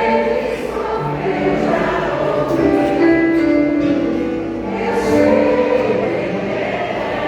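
Vocal group singing a gospel worship song together, several voices holding sustained notes.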